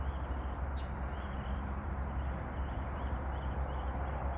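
Outdoor ambience: a steady hiss over a low rumble, with a high, evenly pulsing chirp about seven times a second.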